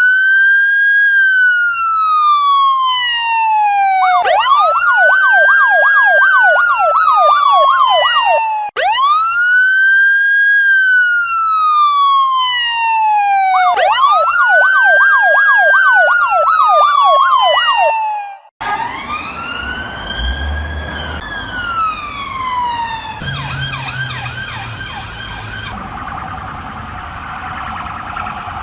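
Electronic emergency siren alternating a slow wail, rising then falling over about four seconds, with a fast yelp of about three warbles a second. About two-thirds of the way in it cuts to a noisier siren recording with a low rumble beneath, wailing and then warbling rapidly.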